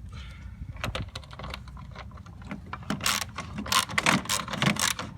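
Ratchet wrench with a 13 mm socket clicking as a mower wheel bolt is worked loose: a few separate clicks and knocks at first, then quick runs of clicking from a little past halfway.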